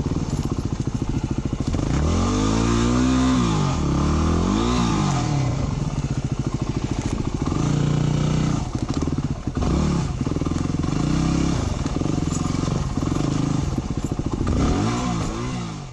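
Dirt bike engine revving up and down over and over while the bike is worked over a fallen log, with some clatter between the revs.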